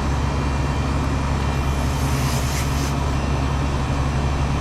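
Walk-in cooler condensing unit running steadily: compressor and condenser fan make a constant low hum with a rush of air. A brief hiss comes about two and a half seconds in.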